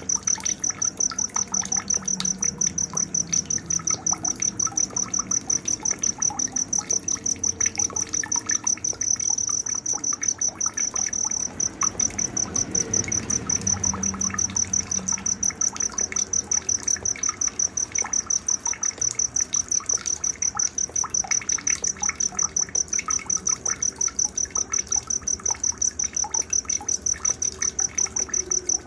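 A cricket chirping in a fast, even, high-pitched pulse, several chirps a second without a break, with scattered bird calls underneath.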